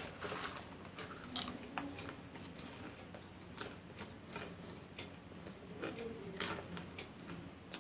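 Popcorn being bitten and chewed, a string of irregular crisp crunches over a faint steady hum.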